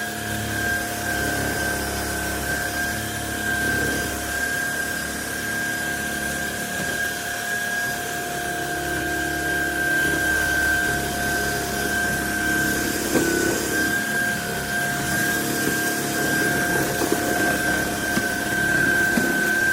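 Cordless stick vacuum cleaner running steadily: a constant motor whine with two steady tones over a rushing of air, its level wavering a little as it is pushed about.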